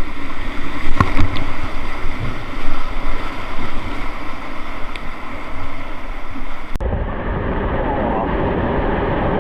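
Wind buffeting the microphone over moving river water, with an abrupt change in the sound about seven seconds in.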